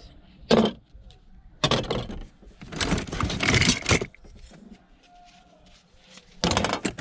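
Metal kitchen utensils (steak knives, forks, tongs) clattering and jangling together in bursts as they are rummaged through in a box.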